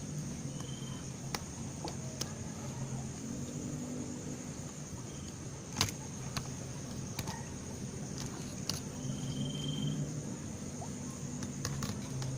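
A low, wavering motor-vehicle engine hum over a steady high-pitched whine, with a few scattered clicks and two brief high chirps.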